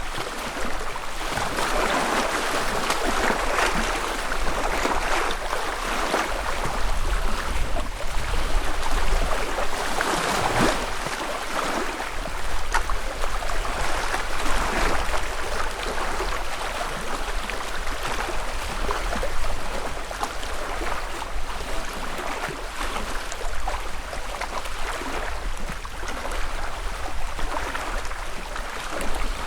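Small lake waves lapping at the shore, a continuous wash of water with little splashes that swells and eases every few seconds.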